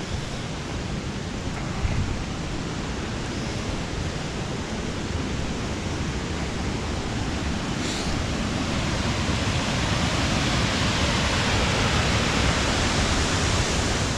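Steady rushing of fast-flowing river water, growing louder over the second half.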